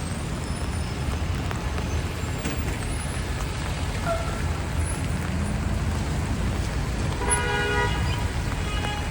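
Steady city street traffic rumbling and hissing, with a vehicle horn honking once for under a second near the end and giving a short second toot just after.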